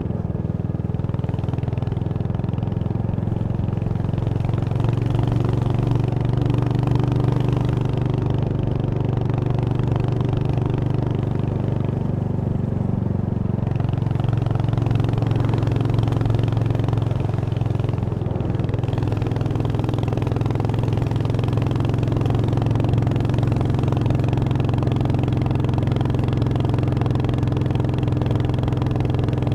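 Royal Enfield Hunter 350's single-cylinder engine running under way. Its steady note shifts in pitch a few times as the revs change.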